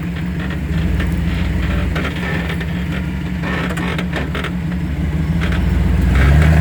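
Two-wheel-drive Chevy's engine running under load while driving off-road, getting louder about a second in and again near the end, with scattered sharp clicks and scrapes over it.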